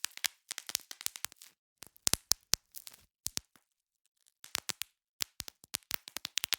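Bubble wrap being popped: quick, irregular sharp pops in clusters, with a pause of about a second midway.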